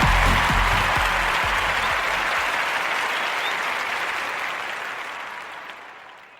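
Applause fading out, as the last thumps of a dance track's bass beat die away in the first second; the clapping dwindles steadily to silence near the end.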